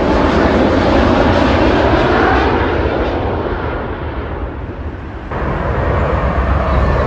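Airliner passing overhead on landing approach, its engine noise gradually fading. About five seconds in it cuts abruptly to a different steady rumble.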